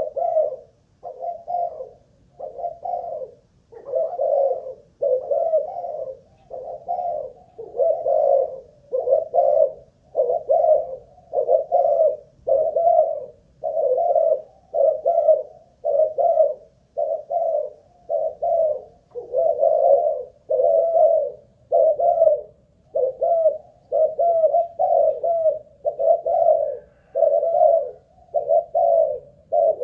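Caged spotted dove (Malaysian-line cu gáy) cooing without a break, one coo phrase after another about once a second.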